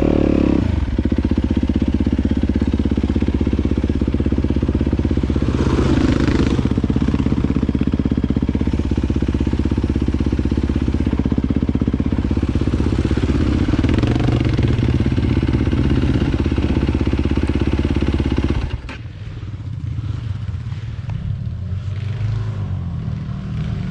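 Yamaha YZ250FX four-stroke single-cylinder dirt bike engine running steadily on the trail, then dropping off sharply to idle near the end.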